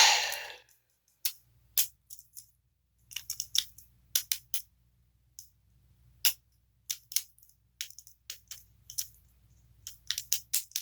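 Small plastic top parts being handled and swapped: a short rattle at the very start, then scattered sharp clicks and clacks at irregular intervals as pieces are snapped and fitted together.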